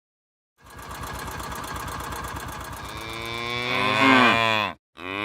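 Cattle mooing: a long moo that starts low and rough, swells and rises in pitch, then falls and cuts off abruptly just before the end, with a second moo starting straight after.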